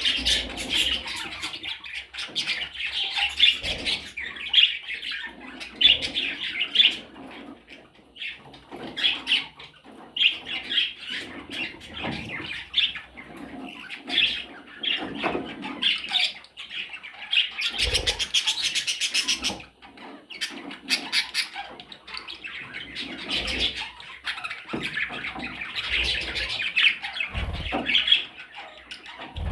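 Small parrots chirping and squawking busily in rapid, overlapping calls, with a couple of soft thumps.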